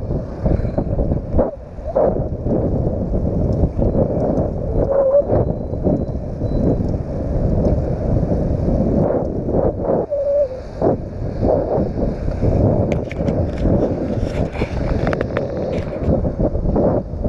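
Wind buffeting the camera's built-in microphone while riding a bicycle: a loud, uneven rumble that surges and dips, with scattered clicks and rattles in the last few seconds.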